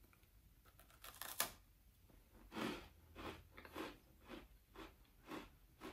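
Faint bite into a crunchy MRE oatmeal cookie, snapping about a second in, followed by chewing crunches about twice a second.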